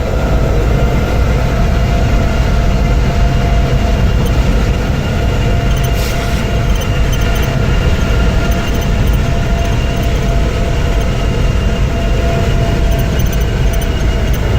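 Train running at speed: a steady, loud rumble of wheels on rails, with a faint steady whine above it.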